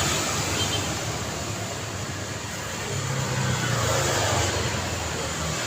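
Road traffic noise: a steady hiss of passing vehicles, with an engine rumble that swells about three seconds in as a vehicle goes by, then eases off.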